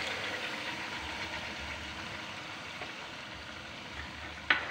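Chicken, tomato and yogurt masala sizzling softly in a steel pot, the sizzle slowly dying down, with one sharp clink of a metal spatula against the pot near the end.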